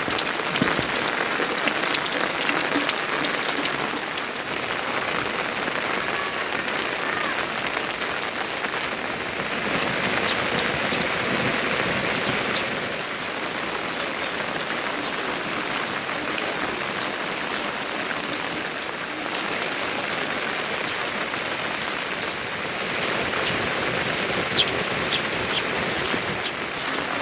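Steady rain falling, an even patter with a few sharper single drop hits scattered through it.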